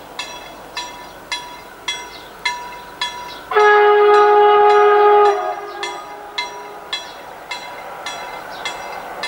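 Passing freight train's wheels clacking over rail joints in a steady rhythm, a little under two clacks a second. About three and a half seconds in, a loud multi-tone train horn sounds for nearly two seconds, then tails off.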